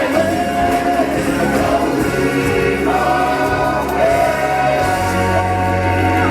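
Music with a choir singing held, wavering notes over a steady bass line.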